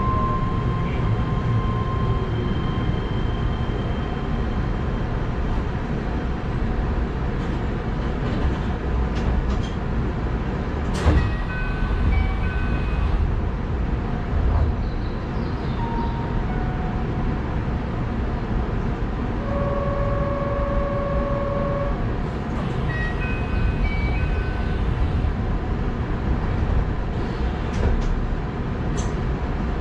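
Keihan electric commuter train heard from the front cab, running slowly and then standing at a platform, with a steady low rumble throughout. A sharp clack comes about eleven seconds in, and there are scattered short electronic beeps, the longest a held two-tone beep about twenty seconds in.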